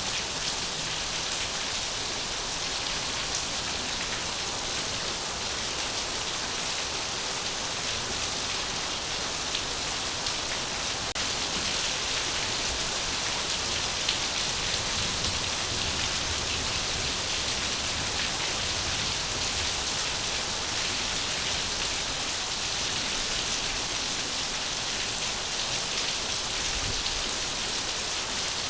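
Steady rain falling, an even hiss with faint scattered drop patter that holds level throughout.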